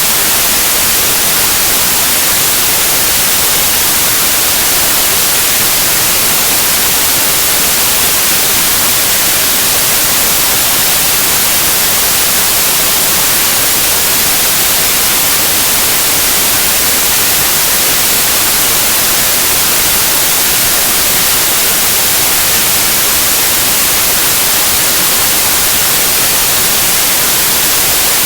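Steady white noise: an even, unchanging hiss, strongest in the high frequencies, at a constant loud level.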